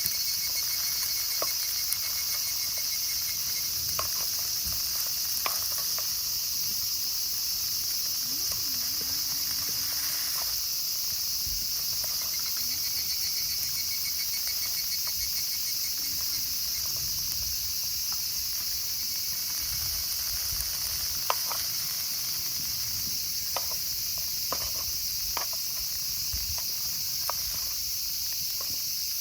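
Steady chorus of crickets and other insects, with trains of rapid chirps coming and going, and a few sharp clicks, most of them near the end.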